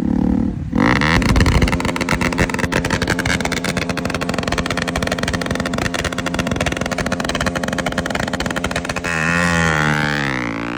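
Bajaj Pulsar NS200's single-cylinder engine through an aftermarket Akrapovic exhaust, loud: the note climbs sharply in the first second, holds at high revs for about eight seconds, then falls and climbs again near the end.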